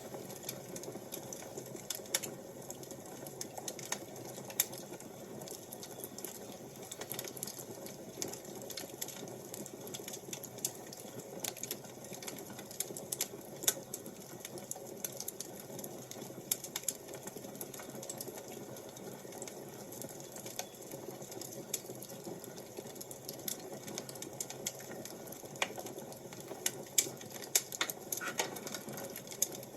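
Wood fire crackling: irregular sharp pops and snaps over a steady soft rush, with a few louder pops near the end.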